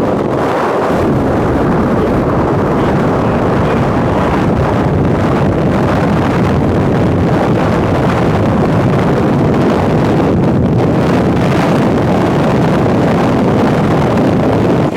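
Strong wind blowing across the microphone: a steady, loud rush of wind noise.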